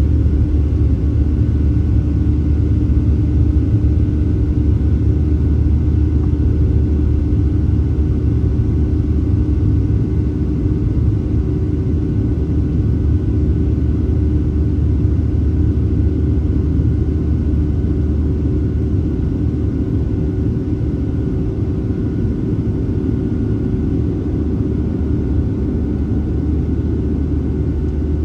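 Steady low rumble of a Boeing 737-700's CFM56 jet engines and airflow heard inside the passenger cabin, with a few steady engine tones above it, easing slightly in loudness towards the end.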